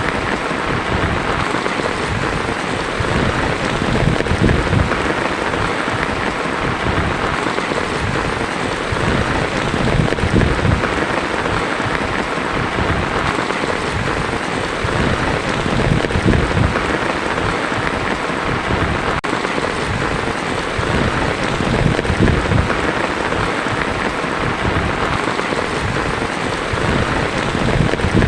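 Heavy rain drumming on a tin roof in a steady, dense patter, with a low rumble that swells and fades every few seconds underneath.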